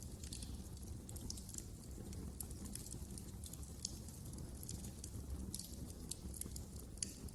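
Fireplace fire crackling: frequent small, sharp pops over a steady low rumble, with a louder pop near the end.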